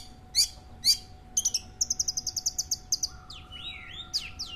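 Long-tailed shrike (cendet) singing. It gives three sharp, high calls in the first second, then a fast run of rapid repeated notes, then a varied stretch of gliding whistles near the end.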